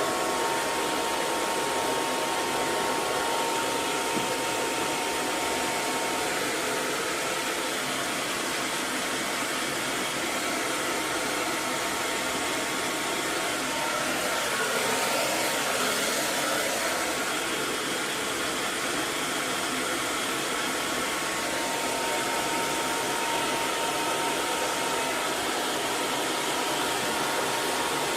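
Electric hair dryer running steadily: a constant rush of blown air with a faint motor whine.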